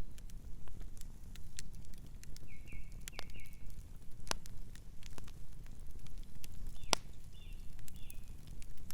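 Campfire crackling, with scattered sharp pops over a steady low rumble; two pops stand out, about four and seven seconds in. A bird gives two short runs of chirps, one around three seconds in and one near the end.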